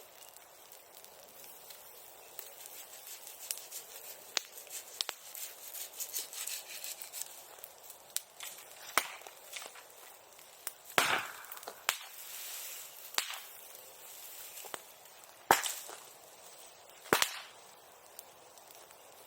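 Wood fire crackling steadily, with scattered sharp pops as the burning wood bursts. The loudest pops come about eleven, fifteen and seventeen seconds in, the first followed by a brief hiss.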